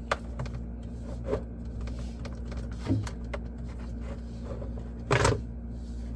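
Jars and containers being handled and squeezed onto refrigerator shelves: a few light knocks, then a louder clatter about five seconds in, over a steady low hum.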